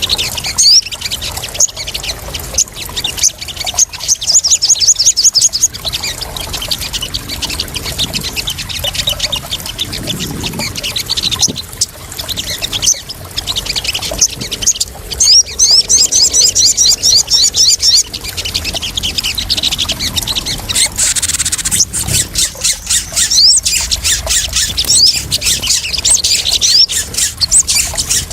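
Sogon sunbirds calling in rapid, high-pitched chittering runs, several times over, against steady splashing water, a sound mix used to lure and calm sogon birds.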